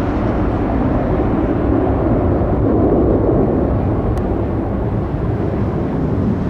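Jet aircraft engines running at high power: a loud, steady rumble that swells slightly about three seconds in.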